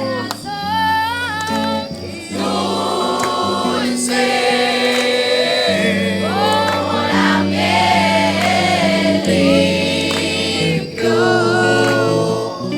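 Music: a group of voices singing a Christian worship song over sustained low accompaniment chords.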